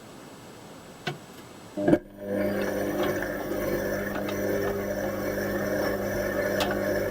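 Indesit washing machine clicking about a second in, with a louder knock just before two seconds. Then a steady electric hum with a few even tones sets in as the machine starts running.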